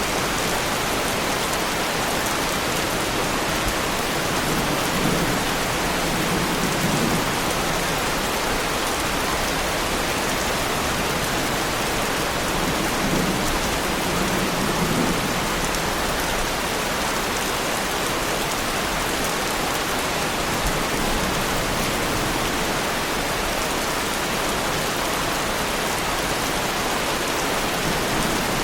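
Heavy rain falling steadily on a car, a dense even hiss, with a few soft low rumbles swelling up about five and thirteen seconds in.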